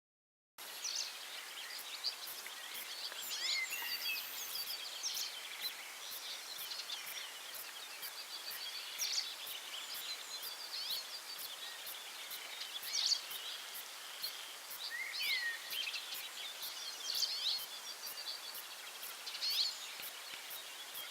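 Several wild birds calling and singing over a steady outdoor hiss: many short chirps and quick downslurred notes, overlapping, starting after a half-second gap at the very start.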